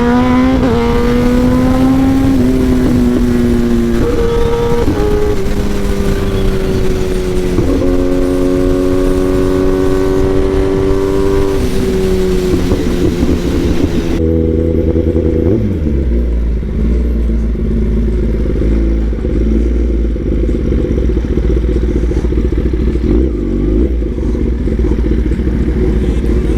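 Kawasaki ZX-10R inline-four with an SC Project exhaust, accelerating through the gears: the engine note climbs, then steps down at each upshift, three or four times. About halfway through the higher tones cut off abruptly, leaving a lower, rougher rumble.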